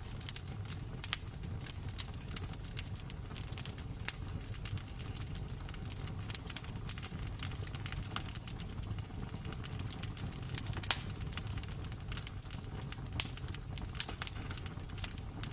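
Wood fire crackling in a fireplace: irregular sharp pops and snaps over a steady low rumble, with two louder pops in the last third.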